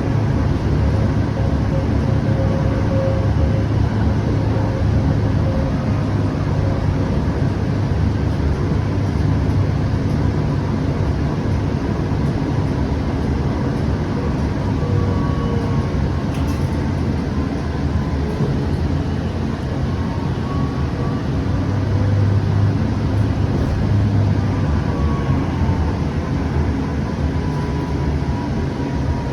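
Siemens S700 light rail car running between stops, heard from inside: a steady rumble of wheels on rail, with faint whining tones that rise and fall slightly in pitch.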